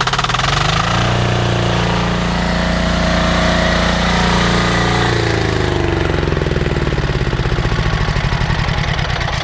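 Loncin single-cylinder diesel engine running just after a pull start, with its typical diesel knock. It picks up speed in the first second, runs steadily, then drops to a lower steady speed about five seconds in.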